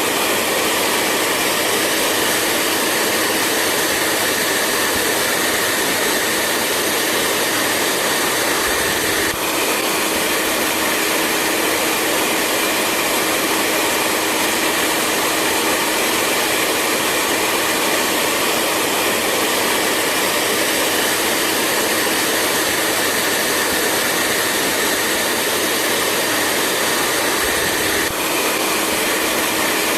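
Hair dryer running steadily: an even rush of blown air with a faint steady hum under it, dipping very briefly twice.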